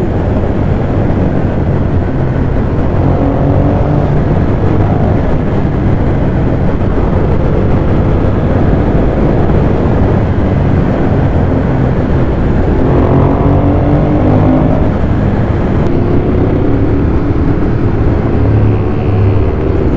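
Ducati Monster 821's L-twin engine running at road speed under heavy wind rush. Its pitch climbs under throttle three times.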